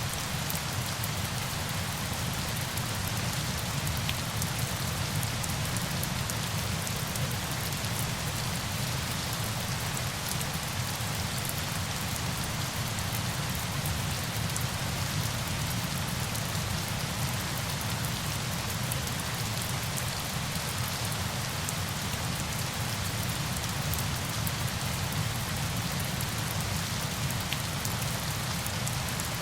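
Steady rain: an even, unchanging hiss with many fine drop ticks.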